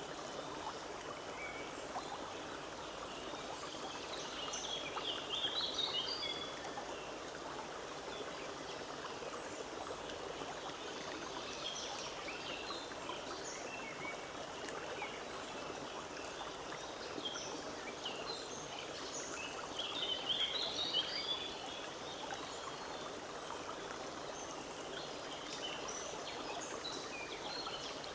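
A forest stream running steadily, with small birds chirping over it; a louder burst of birdsong comes about five seconds in and again around twenty seconds.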